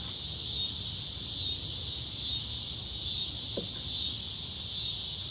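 Cicadas singing in a steady, high-pitched chorus that pulses a little faster than once a second.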